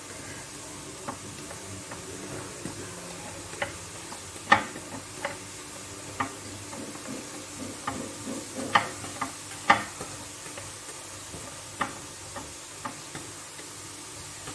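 Scattered sharp clicks and taps at irregular intervals as holes are poked all over a baked lemon sponge cake so that it will soak up syrup; the loudest taps come about four and a half and nine to ten seconds in.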